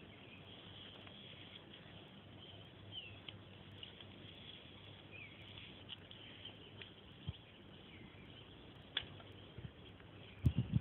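Faint birds chirping over a steady outdoor hiss, with a few short low bumps near the end.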